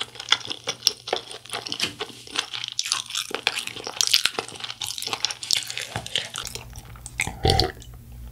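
Close-miked chewing of spicy sauced fried chicken: dense crunching and wet, crackling mouth sounds. About seven and a half seconds in comes a fuller, lower sound as she drinks water from a glass jar.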